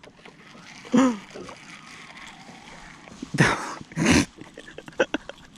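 A short exclaimed "oh" about a second in, then two quick splashes of water about half a second apart.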